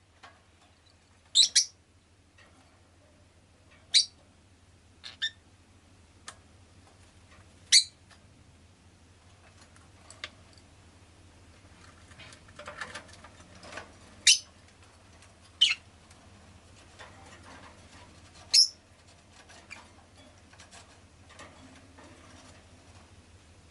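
Rosy-faced lovebird giving short, sharp chirps every few seconds, about seven in all, over a faint steady low hum.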